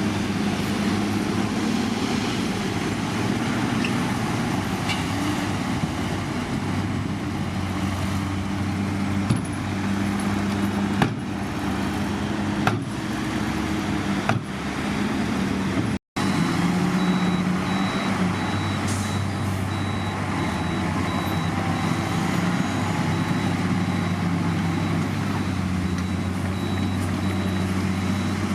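Heavy diesel construction machinery, a bulldozer or dump truck, running steadily under load with a low engine drone and a few sharp knocks. The sound cuts out for a moment about halfway through, then resumes with a faint, rapid, high-pitched pulsing tone over the engine.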